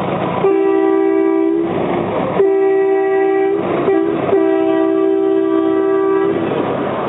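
Steam train whistle blown three times, a two-note chord held about a second, then a second, then about two seconds, with a rushing hiss in the gaps between blasts.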